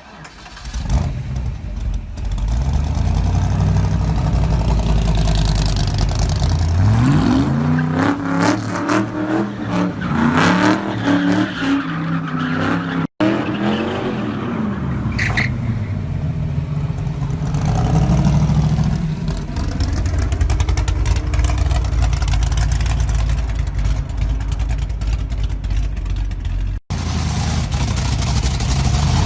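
Shelby Cobra 427's V8 engine running loud and revving, the pitch climbing and falling back several times near the middle. The sound cuts out for an instant twice.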